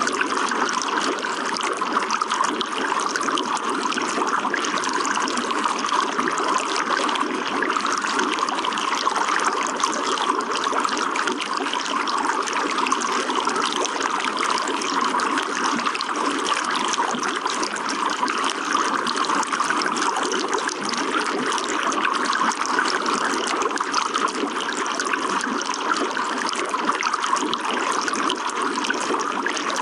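Running water flowing and trickling steadily, a continuous splashing wash with no change.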